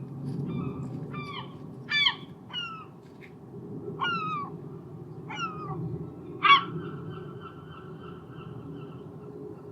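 Gulls calling: about seven short cries that each slide down in pitch, the loudest about six and a half seconds in, over a steady low rumble.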